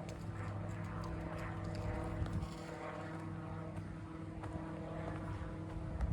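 A steady, low engine drone that holds its pitch, with a few faint light ticks over it.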